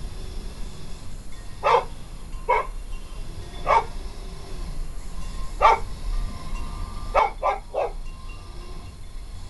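Dog barking: seven short barks, the last three in quick succession about three-quarters of the way through.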